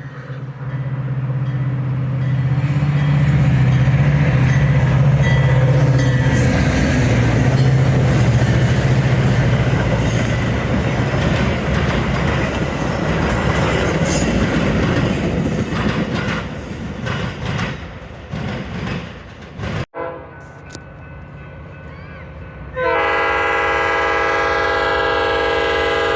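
Train passing close by: a diesel locomotive engine running under a loud clatter of wheels on the rails, fading after about 18 seconds. Near the end, after a sudden cut, a train horn sounds one steady chord of several notes for about four seconds.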